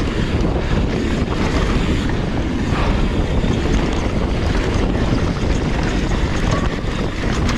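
Steady rush of wind on the microphone of a camera carried on a downhill mountain bike run, with a low rumble from the ride underneath.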